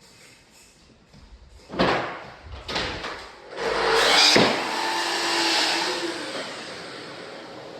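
Floor-laying work noise: two sharp knocks, then a loud rushing noise that swells about three and a half seconds in and fades away over the next few seconds.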